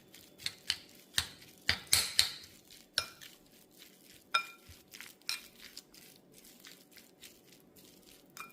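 A utensil clinking and knocking against a bowl while chicken salad is stirred and mixed, with some strikes ringing briefly; the knocks come thick and fast for about five seconds, then thin out.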